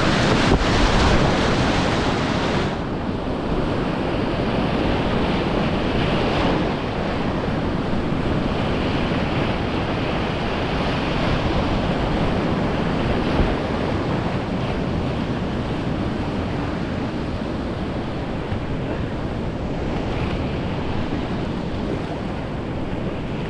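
Steady rush of whitewater in a mountain stream's rapid, with wind noise on the microphone.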